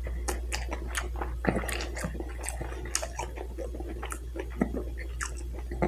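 Close-miked chewing of a mouthful of bratwurst in a bun: irregular wet smacking and clicking mouth sounds.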